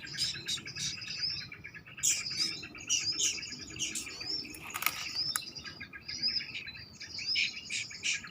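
Several birds chirping in quick, repeated calls with short hooked notes, overlapping throughout. There is one brief sharp knock or rustle about five seconds in.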